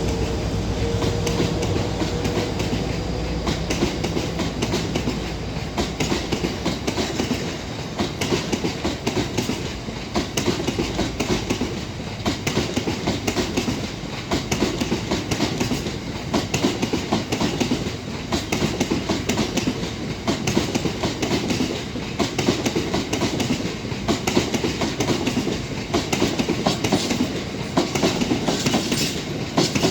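Freight train wagons rolling past, their wheels clicking and clattering over the rail joints. A locomotive's engine hum fades out in the first couple of seconds.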